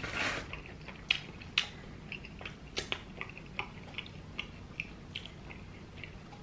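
Close-miked chewing of a mouthful of pizza: wet mouth clicks and smacks every fraction of a second, a few sharp ones early on, thinning out and fading after about five seconds. A short breathy hiss at the start.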